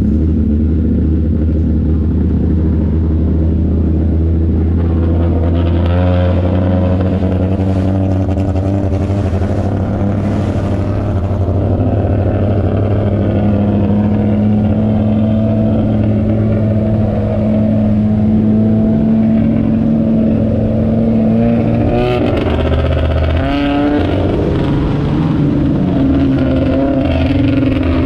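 Stock car engines racing, loud and continuous, with several engines at once and pitch rising and falling as cars pass and accelerate.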